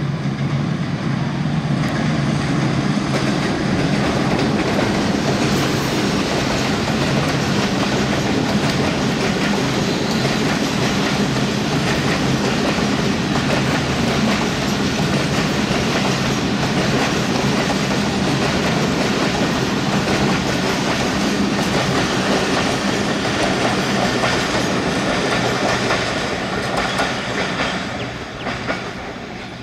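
A diesel-hauled broad gauge passenger train passing close by, its coaches' wheels clattering steadily over the rail joints. The sound drops away near the end as the last coach goes by.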